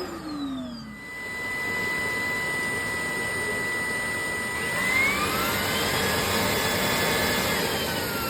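Shark cordless stick vacuum's motor spinning down, then running with a steady whine and rush of air. About five seconds in, its pitch rises as the motor speeds up to a higher suction level, easing back down near the end.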